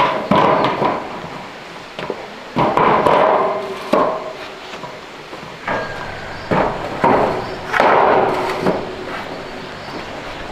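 Irregular bouts of knocking and scraping from hand-tool work, each lasting about a second, a few seconds apart.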